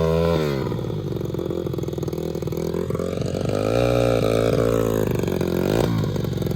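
Single-cylinder four-stroke pit bike engine drops to a low, lumpy putter, then revs up about three seconds in and eases back down, picking up again near the end.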